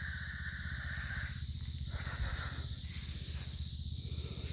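Steady high-pitched chorus of insects, crickets by the sound of it, with a low steady rumble underneath.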